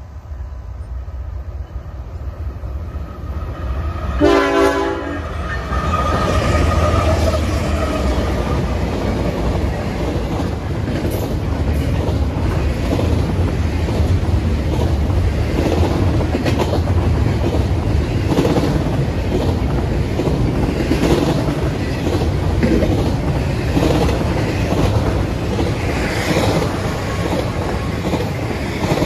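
A BNSF freight train sounds its horn once, a blast of about a second, about four seconds in. Its diesel locomotives then pass loudly at close range, followed by double-stack intermodal container cars whose wheels clatter over the rail joints.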